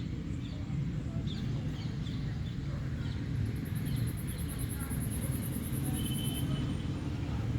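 Birds chirping over a steady low rumble, with a rapid high-pitched pulsing trill in the middle that stops about a second before the end.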